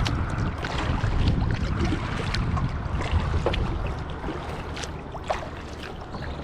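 Kayak paddling on open water: scattered splashes and drips from the paddle over a steady rush of wind buffeting the microphone, slowly easing off.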